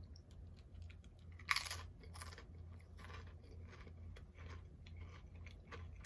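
A person biting into and chewing crunchy chips close to the microphone: a loud crunch about a second and a half in, another just after, then steady crunching chews.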